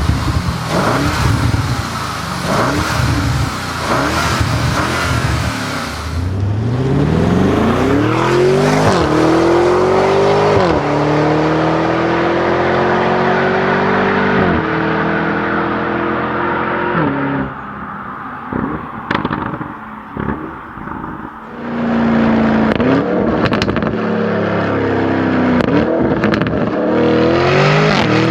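Lamborghini Urus Performante's twin-turbo V8 accelerating hard, its exhaust note climbing in pitch and dropping at each upshift, several shifts in a row. Around two-thirds of the way through it lifts off and the exhaust crackles and pops on the overrun, then it pulls hard again through more quick upshifts.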